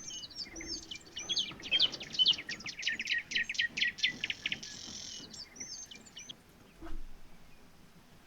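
Birds chirping and twittering in many quick, high chirps, thickest in the first half and thinning out until they die away after about six seconds.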